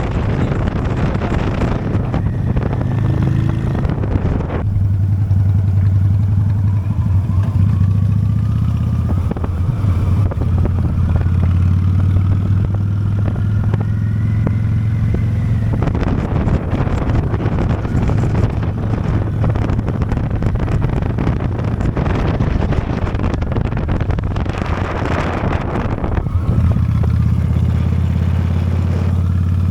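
Honda Steed V-twin motorcycle engine running steadily while riding, with wind rushing over the microphone, heavier for the first few seconds and again from about sixteen to twenty-six seconds in.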